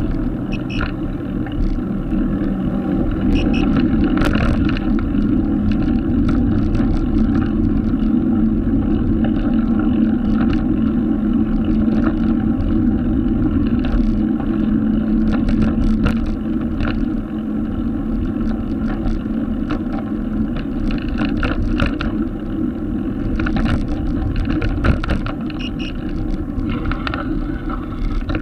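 Steady road and wind noise from riding a bicycle on the road, with faint clicks here and there.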